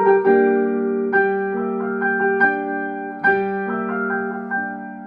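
Electric piano playing a slow instrumental passage of sustained chords and melody notes, fading somewhat toward the end.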